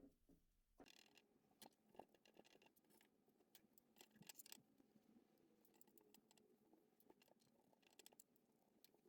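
Near silence with faint scratching and scattered small clicks.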